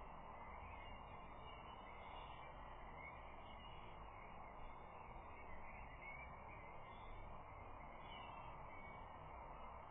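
Faint steady outdoor background hiss and low rumble, with faint scattered bird calls in the distance.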